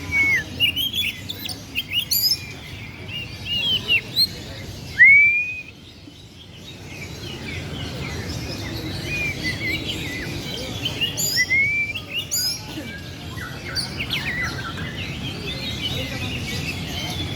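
Many songbirds singing at once, overlapping chirps and whistles, with one loud slurred whistle about five seconds in, over a low background murmur.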